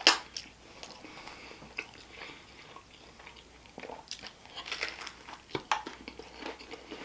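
Close-up eating of a deep-fried chimichanga: a sharp crunch right at the start, soft chewing, then a fresh bite about four seconds in with a cluster of crisp crunches from the fried tortilla shell.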